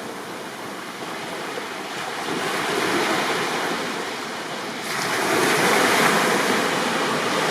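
Small sea waves washing onto a beach: a steady rushing surf that swells about three seconds in and surges louder just before five seconds as another wave comes in.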